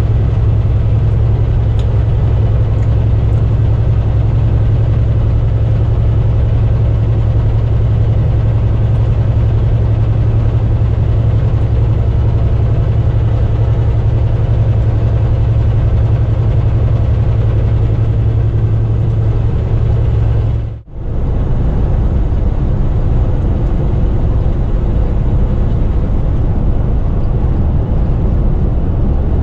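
Semi-truck engine and road noise heard from inside the cab while driving on the highway: a loud, steady low hum over even noise. About two-thirds of the way through the sound briefly drops out and comes back changed, without the steady low hum.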